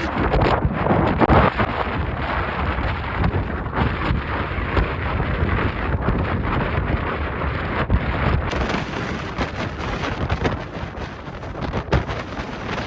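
Strong gusting wind buffeting the microphone: loud, rough rumbling noise that swells and drops without a break.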